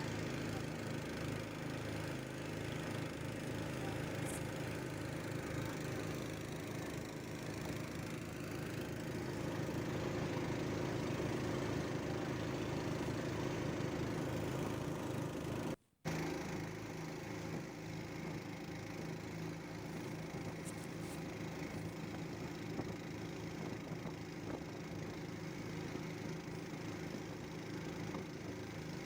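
Riverboat motor running steadily, with a brief dropout about halfway through.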